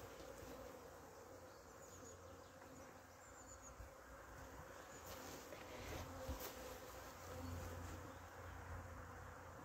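Honeybees buzzing around an open hive, a faint steady hum, with a couple of light knocks about five and six seconds in.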